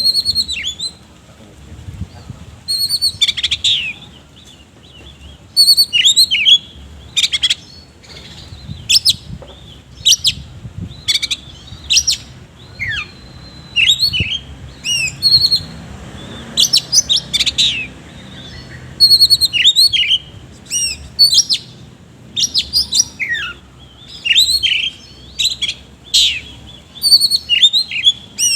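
Oriental magpie-robin singing loudly and at length: rapid, varied phrases of sharp chirps, whistles and quick trills, broken by short pauses, a full song packed with harsh mimicked phrases.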